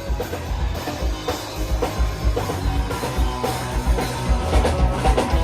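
Live pop-punk band playing an instrumental passage: full drum kit with a steady kick and snare beat under electric guitars and bass.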